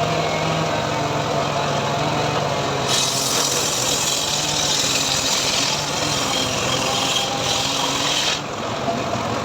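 Engine of a homemade srekel sawmill running steadily, with the saw blade cutting through a teak log from about three seconds in until it stops sharply just past eight seconds.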